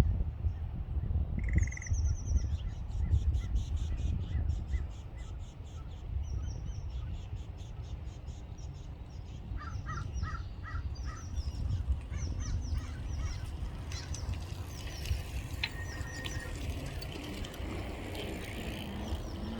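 Birds calling outdoors: series of quick, repeated high chirps, and a short run of lower calls about halfway, over a steady low rumble.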